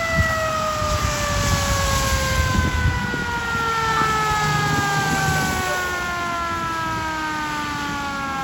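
Fire truck's mechanical siren winding down, its pitch falling slowly and steadily, over the low rumble of the truck's engine.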